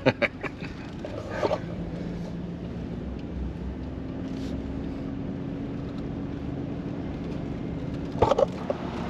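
Steady engine and road hum of a Chevy Silverado 2500 pickup, heard from inside the cab, with a few light knocks at the start and again near the end.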